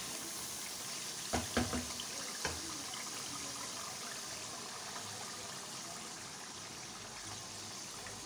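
Meat and tomato masala sizzling steadily in oil in a pan over a lowered flame. A few short knocks of a wooden spatula against the pan come about one and a half seconds in, with one more a second later.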